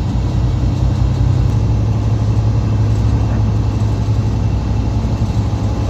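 Semi truck's diesel engine droning steadily, heard from inside the cab while driving, with a steady low hum; the engine note drops slightly about a second and a half in.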